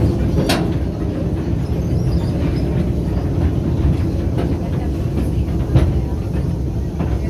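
Open-sided tourist train carriage in motion: a steady low rumble with a few sharp knocks.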